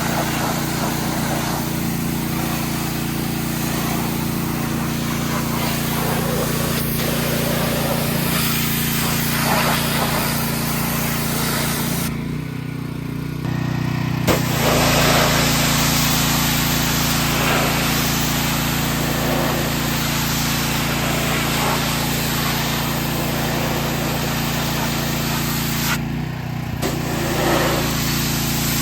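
Gas-powered pressure washer: its small engine runs steadily under the hiss of the water spray. The spray cuts out briefly about halfway through and again near the end while the engine keeps running.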